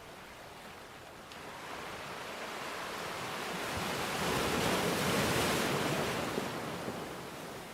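Ocean surf: a wave's wash builds over a few seconds, peaks about five seconds in, then falls away.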